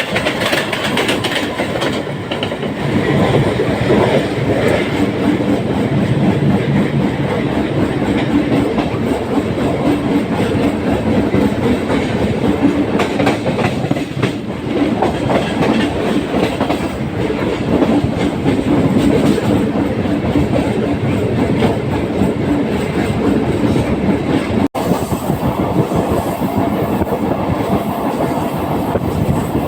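Mumbai suburban electric local train running, its carriage rattling with a steady clickety-clack of wheels over rail joints. The sound cuts out for an instant near the end.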